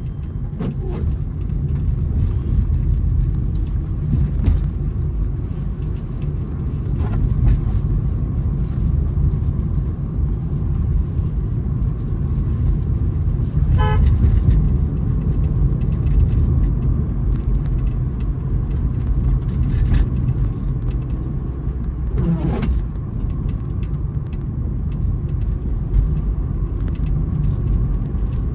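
Low, steady rumble of a moving Honda City heard from inside the cabin. A short car horn toot sounds about fourteen seconds in.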